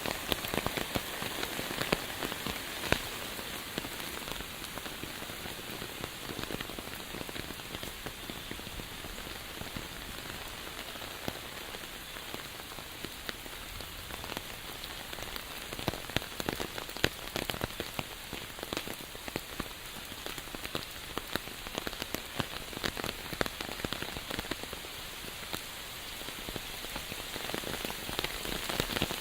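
Steady rain falling, with many sharp individual drop hits standing out from a dense, even hiss.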